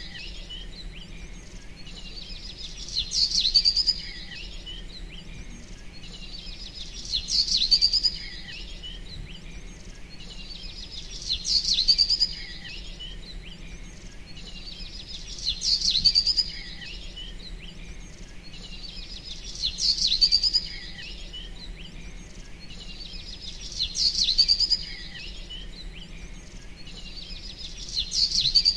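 Bird chirping in short high phrases. A phrase comes about every four seconds, seven times, and each sounds much like the last.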